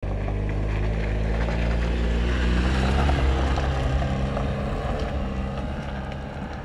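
Trabant car's engine running as the car drives past on a gravel road and away, loudest about three seconds in and then fading, with tyre noise on the loose gravel.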